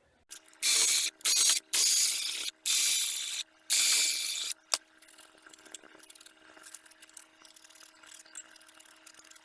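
Five short, loud hissing spray bursts in quick succession, each half a second to a second long, followed by faint clicks and rustling of parts being handled.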